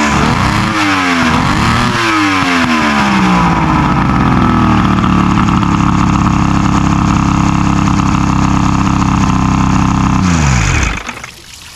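Bass Tracker boat's outboard motor running after its crank-but-no-start fault was fixed. It is revved up and down a few times, then held at a steady speed, and shut off near the end, its pitch falling as it winds down.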